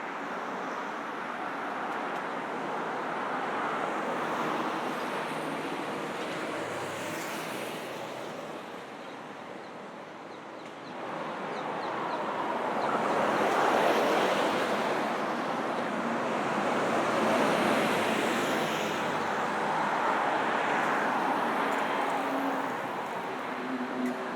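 Steady road traffic: a wash of tyre and engine noise from cars on a busy multi-lane road, growing louder about halfway through as vehicles pass close, then rising and falling with each pass.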